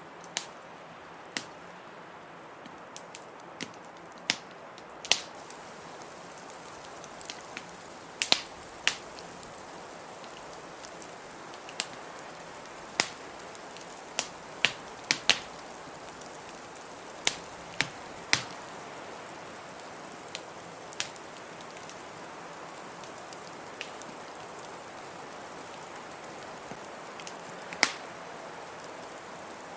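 Fireplace wood fire crackling, with irregular sharp pops and snaps about once a second over a steady rushing hiss.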